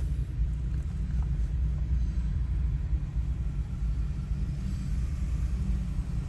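Union Pacific freight train's cars rolling past, a steady low rumble of wheels on the rails.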